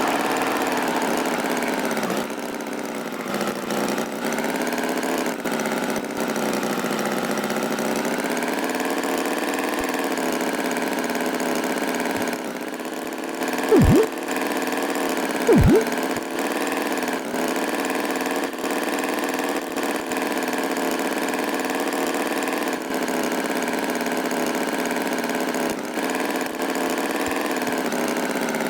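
Tractor engine running steadily, its pitch wavering slightly, broken twice by short, loud swooping sounds about halfway through.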